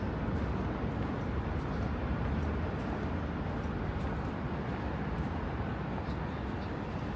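Steady, low city rumble of outdoor urban background noise, like distant traffic, with a few faint clicks above it.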